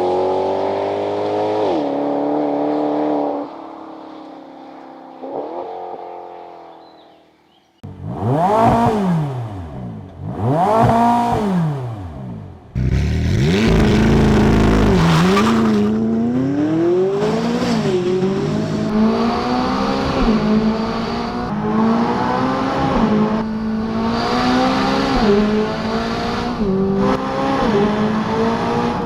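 Sports-car engine and exhaust in several short takes: a falling engine note that fades out, two quick sweeps up and down in pitch, then hard acceleration with the note climbing and dropping back at each quick gearshift, about eight times.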